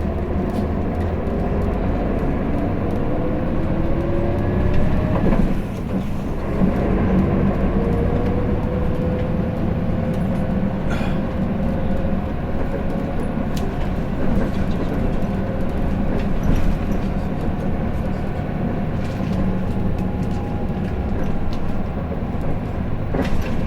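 Hino Blue Ribbon City diesel city bus driving, heard from inside the cabin. The engine note rises, drops briefly about five seconds in, then climbs again and settles to a steady run, with a few light rattles and clicks.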